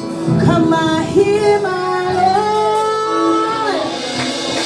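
Gospel worship music: a singer holds and glides through long sung notes over the band's accompaniment.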